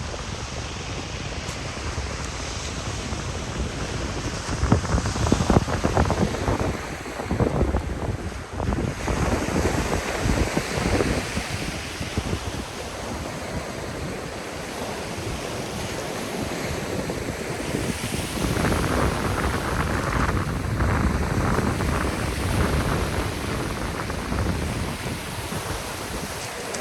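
Black Sea waves washing onto the shore, with louder surges about five seconds in and again near two-thirds through. Wind buffets the microphone throughout.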